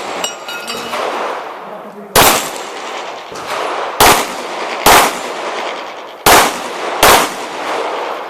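Pistol shots at an action-pistol match: five sharp cracks, each with a short ringing echo, a single shot about two seconds in and then two pairs of shots, the shots in each pair about a second apart.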